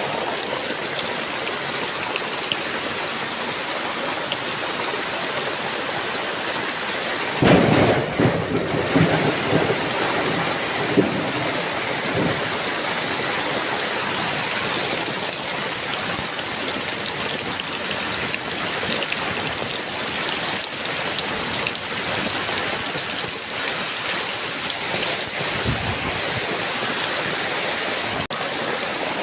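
Heavy rain falling steadily, with one thunderclap about a quarter of the way in that rumbles on for several seconds.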